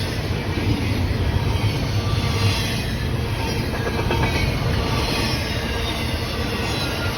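Train rolling past with a steady rumble of wheels on the rails and faint high-pitched wheel squeal.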